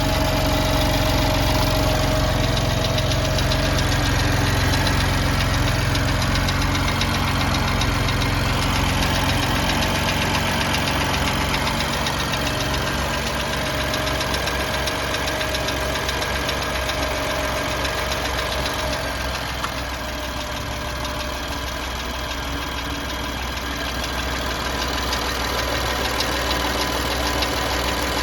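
BMW M4's twin-turbo straight-six idling from a cold start, with a fast, steady ticking over the engine note. The owner takes the tick for lifter (tappet) noise, bad enough to send the car in for warranty repair.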